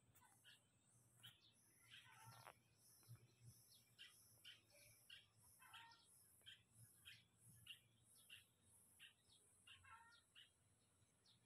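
Near silence, with faint, short bird chirps repeating about twice a second.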